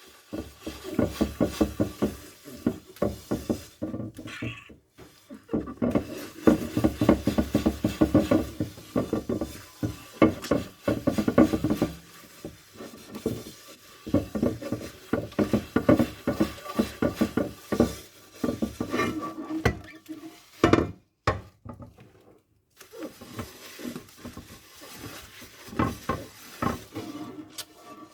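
Dishes being washed by hand: crockery and cutlery knocking and clinking together in irregular clatters, with short pauses.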